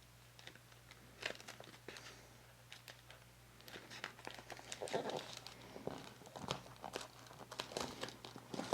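Paper and card rustling and crinkling as they are handled, with irregular light taps and crackles; the handling grows busier from about four seconds in.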